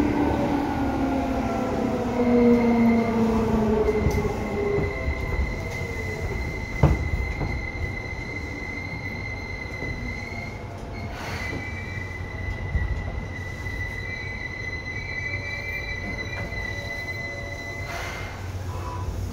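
Seibu 2000 series electric train running: its motor whine falls in pitch over the first few seconds as the train slows, over a low rumble of the wheels. Then a steady high squeal holds for most of the rest, broken briefly about halfway, with a single knock about seven seconds in.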